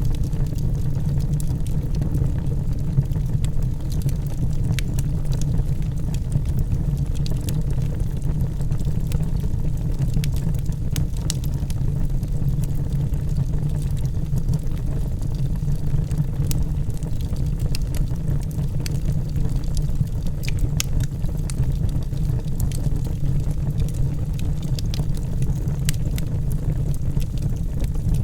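Logs burning in a fireplace: a steady low rumble of the flames with scattered sharp crackles and pops.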